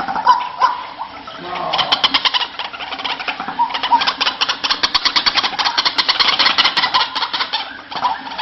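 White-breasted waterhen calling: a fast run of harsh pulses, about ten a second, from about two seconds in until near the end, with shorter single notes before and after.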